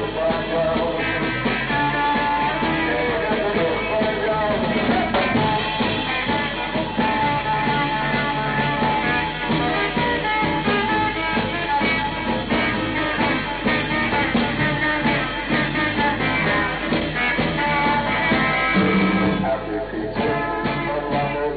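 1960s beat-group rock music played live, with electric guitars, bass guitar and drums, in an old, dull-sounding recording.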